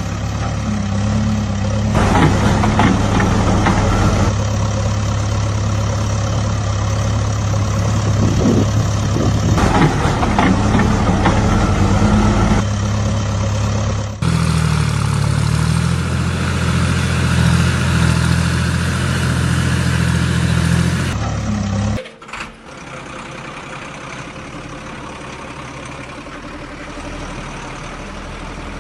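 Heavy diesel machinery engines, a backhoe loader and tipper truck, running steadily under work. The engine note changes a few times, and a little past two-thirds through the sound drops suddenly to a quieter steady engine hum.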